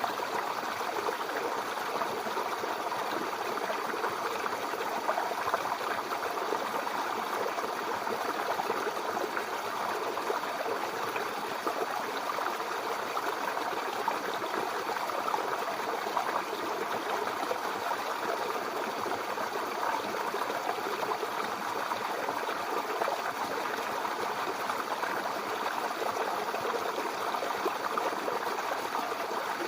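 A babbling brook: shallow water flowing and burbling over stones in a steady stream.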